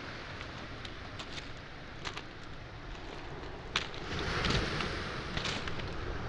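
Footsteps on beach pebbles and small boulders, the stones clicking irregularly underfoot, over the steady wash of waves on the shore; a wave surges in, louder, about four seconds in.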